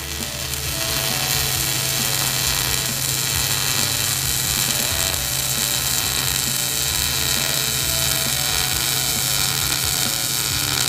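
MIG welding arc running steadily with a continuous hiss as a weld pass is laid on the joint of a steel auger shaft.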